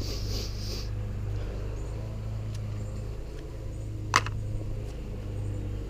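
A steady low mechanical hum, with a short rustle at the start and one sharp click about four seconds in.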